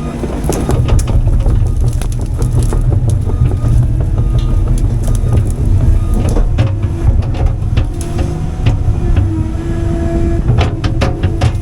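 CAT 310 excavator's diesel engine running under load, with a wavering hydraulic whine and many sharp cracks and knocks scattered through it.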